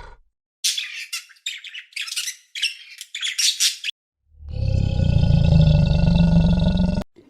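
Bird chirping in a rapid run of high calls for about three seconds. Then, after a short gap, a loud, low, drawn-out animal call of nearly three seconds that stops abruptly.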